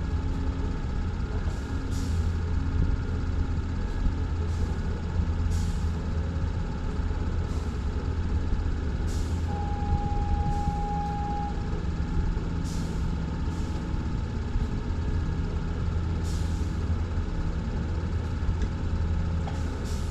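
Boat's outboard motor running steadily under way, with short bursts of hiss every second or two. A single steady beep sounds for about two seconds near the middle.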